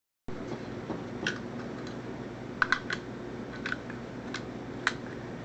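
Scattered light clicks and taps, a few seconds apart with a quick pair in the middle, over a steady low hum. The sound starts abruptly just after a moment of dead silence.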